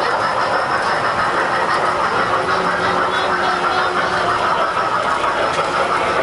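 Model trains running on a club layout: a steady clatter of small wheels over the track with the hum of their motors.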